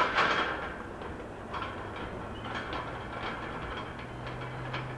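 Double-stack container freight train rolling away, its wheels clacking over the rail joints in scattered clicks, loudest right at the start. A steady low hum comes in about a second and a half in.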